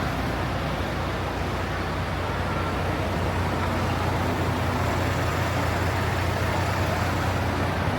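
Steady low engine drone over a constant wash of outdoor background noise, like trucks idling at a show ground.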